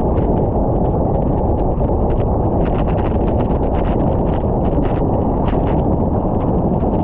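Steady wind rushing over the microphone of a camera on a bicycle riding downhill, with many small ticks scattered through it.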